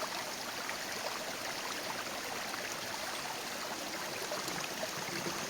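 Steady rushing, hissing noise of running water, with faint scattered ticks.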